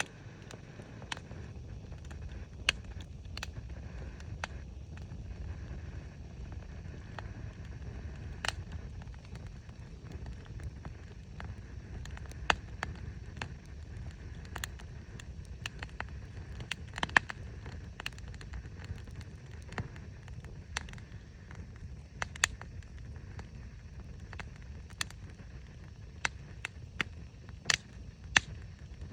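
Wood bonfire crackling, with sharp, irregularly spaced pops and snaps, a few much louder than the rest, over a steady low rumble.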